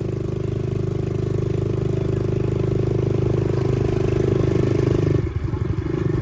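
Dirt bike engine running steadily under way, its note dropping briefly about five seconds in and then picking up again.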